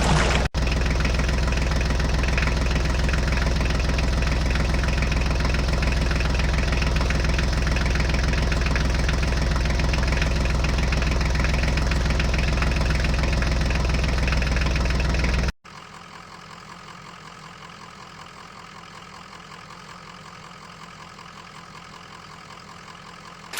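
Engine idling steadily with a fast, even chug. About two-thirds of the way through it cuts off abruptly and a much quieter idle carries on.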